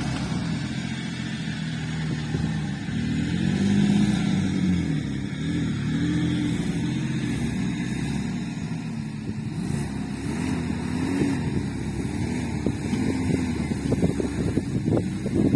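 An off-road vehicle's engine working under load, its pitch rising and falling over and over as the throttle is worked. Near the end comes a quick run of knocks.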